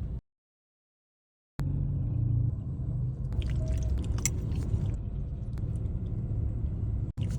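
Low, steady rumble of a car cabin, cut to dead silence for over a second near the start, with scattered crisp crackles and clicks around the middle.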